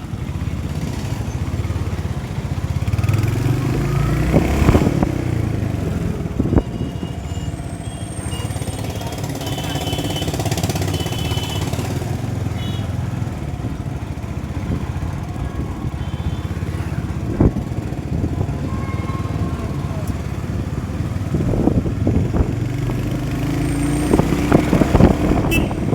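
Motorcycle engine running while riding, with steady wind rumble on the phone's microphone.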